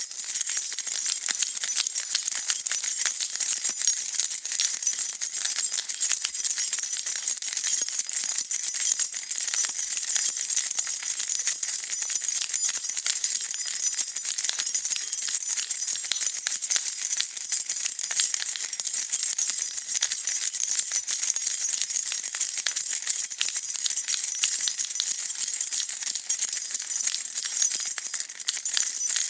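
A bunch of metal keys shaken continuously, jingling and clinking against each other in a dense, steady rattle.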